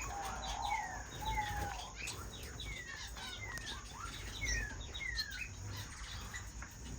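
Small cage finches chirping and calling, many at once: a run of short downward-sliding chirps with a few lower whistled notes near the start.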